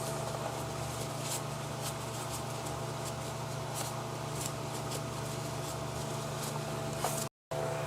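Steady low background hum with a few faint, scattered light clicks and rubs of hand work on brake caliper parts. The sound cuts out completely for a moment near the end.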